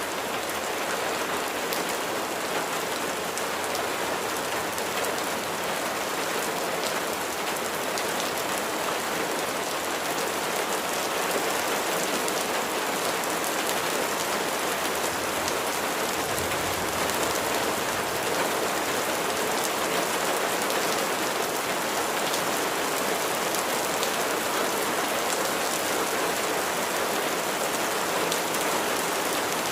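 Steady rain falling, a dense even hiss of drops striking a surface with fine individual drop ticks through it.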